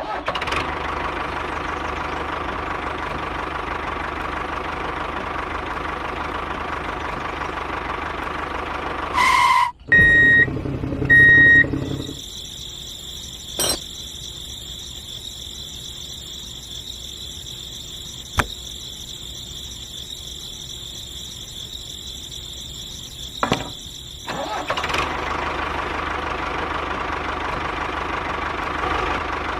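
A small motor running steadily. It switches abruptly to a higher-pitched whine with a few sharp clicks, then back to the first steady hum. Two short high beeps come about a third of the way in.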